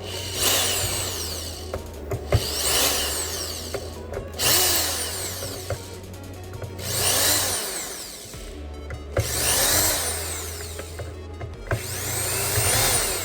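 Electric screwdriver backing screws out of a PlayStation 5, in about six short runs, each with the motor's pitch rising and falling.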